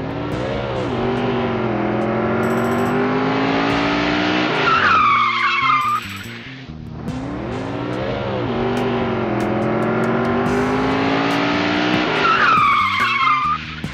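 Car engine running under load with tires squealing. This happens twice in a near-identical sequence, each ending in a high, falling squeal.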